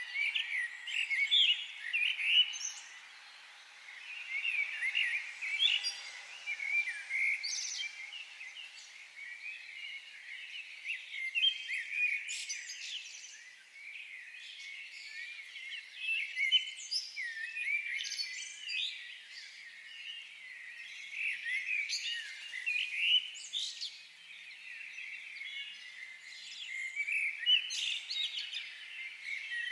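Several birds singing, with rapid high chirps and warbled phrases coming in bursts every few seconds.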